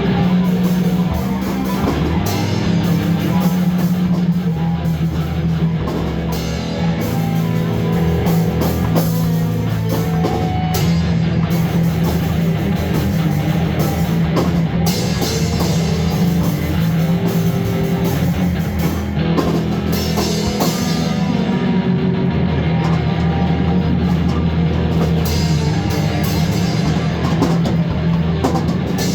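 Rock music with drum kit and distorted electric guitar, loud and continuous, in a heavy-metal style.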